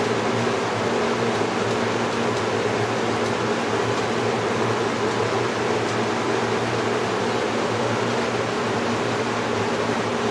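1970s Hunter 20-inch seven-blade box fan (model 11027) running steadily: a rush of moving air with a steady low hum.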